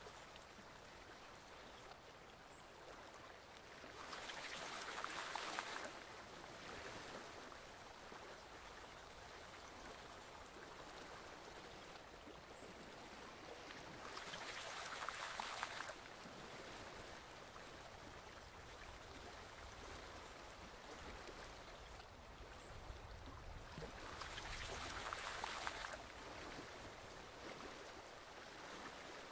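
Forest stream flowing with a steady, faint rush of water, swelling louder for a couple of seconds about every ten seconds.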